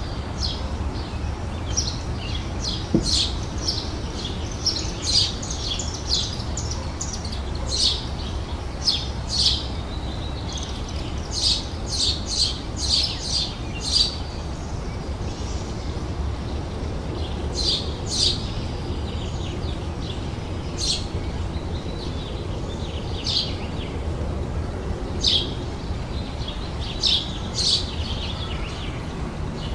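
Small songbirds chirping and singing in short, sharp high notes, some in quick runs of several notes, others single calls.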